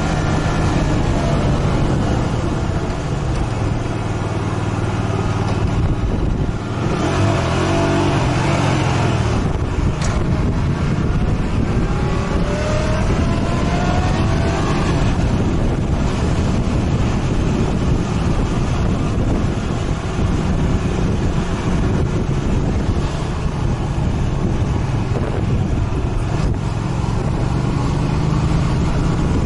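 Motorcycle engine running while riding, its pitch rising and falling with the throttle, over a steady rushing noise.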